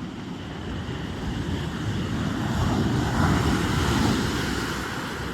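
Sea surf: a wave rises to its loudest about three seconds in and washes back, over steady rumble. Wind buffets the microphone.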